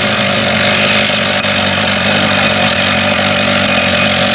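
A train running, a loud, steady mechanical noise with a strong hiss over a low hum.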